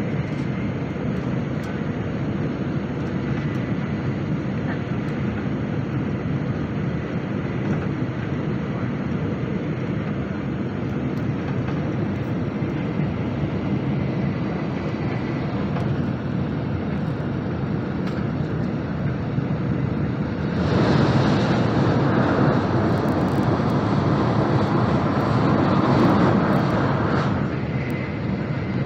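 Steady rumble and rush of a Shinkansen bullet train running at high speed, heard from inside the carriage. The noise grows louder and brighter for about seven seconds about two-thirds of the way through, then drops back.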